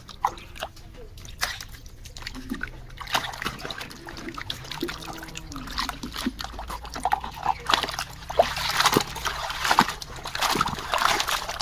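Water sloshing and splashing as a muddy plastic toy vehicle is scrubbed by hand in a tub of water, with scattered small clicks and knocks of the toy. The splashing grows busier near the end.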